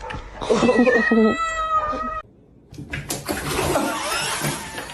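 A cat's long, drawn-out meow held on one steady pitch for about two seconds, cut off abruptly. After a short gap comes a stretch of dense, noisy hiss.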